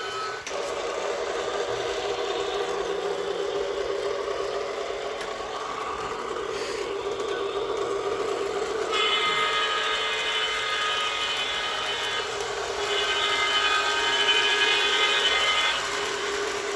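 Small toy Christmas train running along its track, its electric motor making a steady whir. Partway through, a higher steady tone joins in, breaks off briefly, then sounds again.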